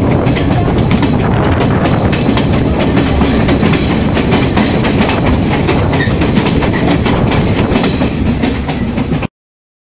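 Passenger train coach running along the track, heard from an open window: a steady rumble with wheels clattering over the rails. It cuts off suddenly about nine seconds in.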